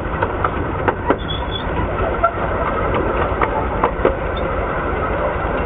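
Miniature steam train running along its track, heard from a carriage just behind the locomotive: a steady rumble with sharp clicks from the wheels over the rails coming at irregular intervals.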